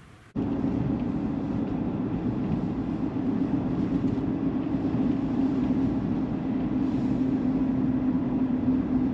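Vehicle driving on a road: steady road and engine noise with a steady low hum, cutting in abruptly just after the start.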